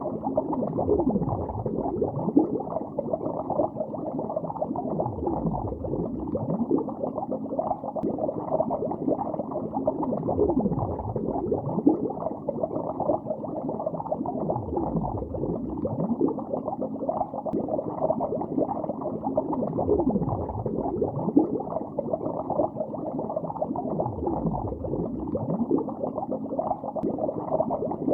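Underwater bubbling recorded below the surface of a lake: a continuous muffled stream of bubbles with many short gurgling pitch sweeps, dull and without any high sound.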